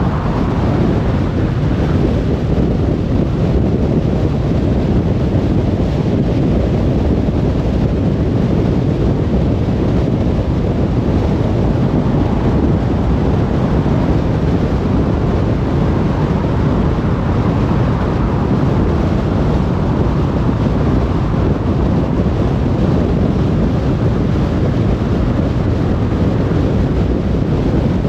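Car cruising on a motorway: a steady low rumble of tyre and wind noise with no breaks or changes.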